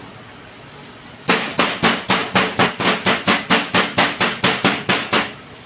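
A meat hammer pounding a chicken breast wrapped in paper to flatten it: a quick, even run of about seventeen blows, roughly four a second, starting a little over a second in.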